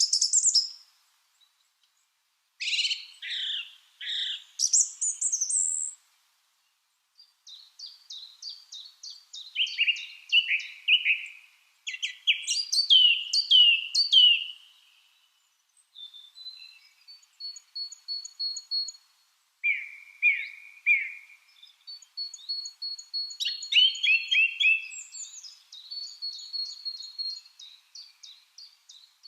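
Lovebirds chirping in quick runs of sharp, repeated chirps, several a second, breaking off twice for a second or so near the start.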